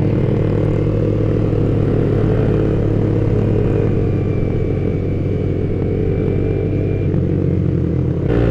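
Yamaha Vixion R's 155 cc single-cylinder engine running steadily under load as the motorcycle climbs a steep hill. The engine note changes slightly near the end.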